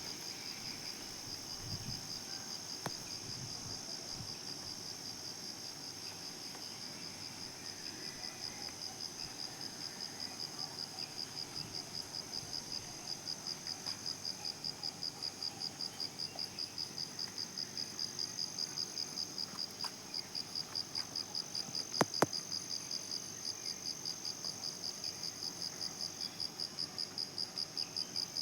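An insect, of the cricket kind, calling steadily: a high-pitched, even pulsing of about three pulses a second. A single sharp click comes about 22 seconds in.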